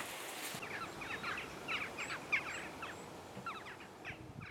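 Small birds calling at dusk, a run of many quick, short descending chirps over a faint steady outdoor hiss.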